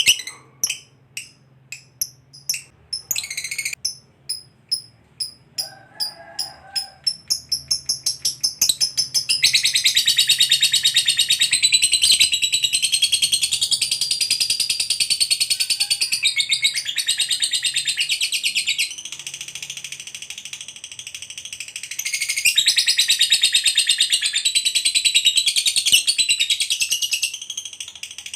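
Lovebird's ngekek: separate shrill chirps that come faster and faster over the first nine seconds or so, then run together into a long, fast, continuous chattering trill. The trill eases for a few seconds past the middle, then picks up again until shortly before the end.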